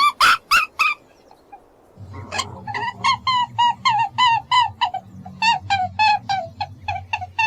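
Rapid series of short, high, squeaky animal calls, about three to four a second, with a pause of about a second near the start before they resume.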